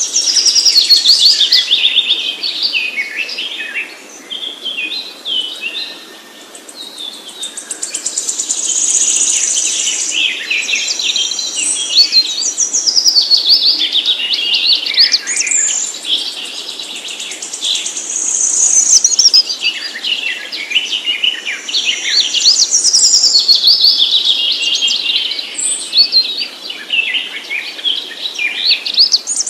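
A songbird singing a long, varied song of rapid whistles, chirps and trills, in phrases broken by short pauses.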